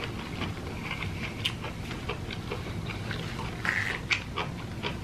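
Close-up wet chewing and lip-smacking of jackfruit: irregular small clicks and smacks, a little louder about four seconds in, over a steady low hum.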